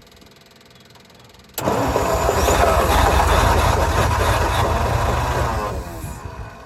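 Starter cranking the long-dormant engine of a 1955 Ford grain truck: it starts suddenly about a second and a half in, turns over for about four seconds, then winds down and stops. This is a first attempt to start the engine after fuel has been fed to it.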